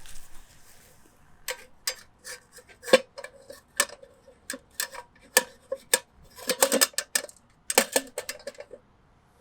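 Metal camping kettle and cookware parts clinking and knocking together as they are handled and fitted, an irregular series of light, sharp knocks with a short ringing tone. The knocks come in quick clusters a little past the middle and near the end.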